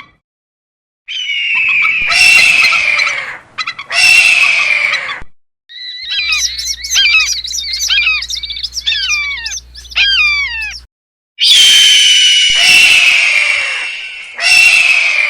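A series of separate farm-animal calls cut one after another: two loud, drawn-out calls that fall in pitch, then about five seconds of rapid, overlapping high chirps, then more long falling calls near the end.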